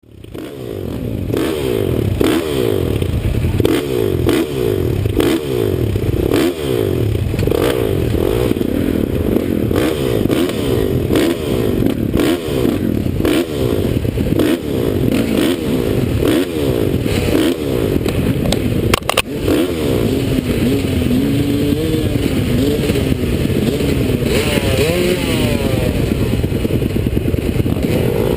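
2009 Honda CRF450R's single-cylinder four-stroke engine revving up and falling off again and again through the gears under hard riding, with clattering knocks from the bike over the track. Heard close up through an open-backed action camera housing.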